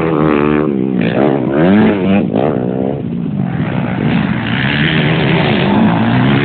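Motocross bike engines revving, rising and falling in pitch again and again as the throttle opens and closes, with a brief dip in loudness about three seconds in.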